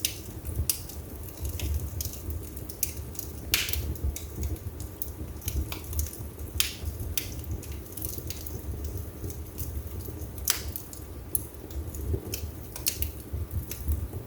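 Wood fire burning in a fireplace: a steady low rumble from the flames, with irregular crackles and sharp pops of the burning wood. The three loudest pops come about three to four seconds apart.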